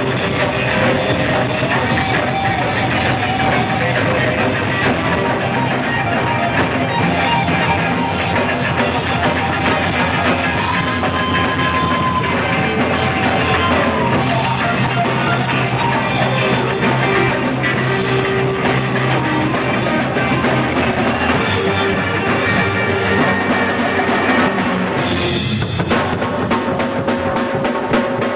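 Blues-rock band playing: electric guitar over a steady drum kit and bass, with a cymbal crash about 25 seconds in.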